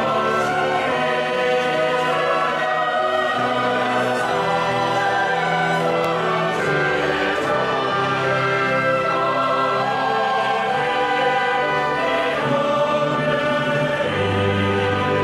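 Church choir singing a worship anthem with orchestral accompaniment, holding long sustained chords.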